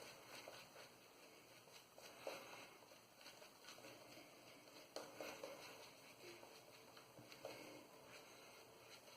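Near silence with faint, soft squishing of a boar-bristle shaving brush working shaving-soap lather on the face, with a few slightly louder pats about two, five and seven and a half seconds in.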